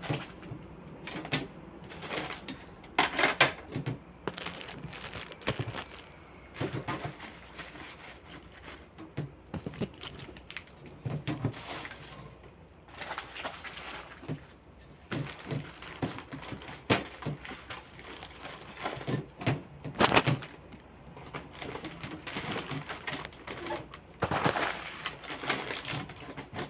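Plastic containers and fridge shelves being handled and set back in place: irregular clatter of knocks, clicks and rustling, with a few louder knocks.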